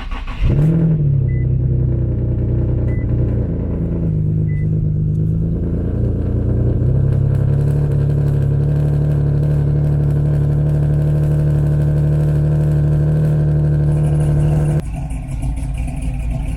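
Single-turbo Nissan 370Z's VQ37VHR V6 starting with a sudden loud burst, then running at a steady high idle. About fifteen seconds in the idle drops to a lower, quieter note.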